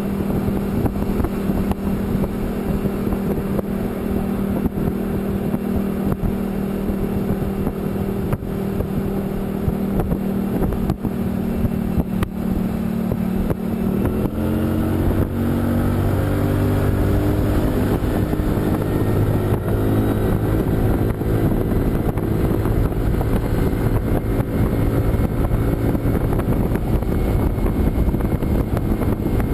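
A motor vehicle's engine running steadily under road noise and wind. About halfway through the engine note drops, then climbs slowly again.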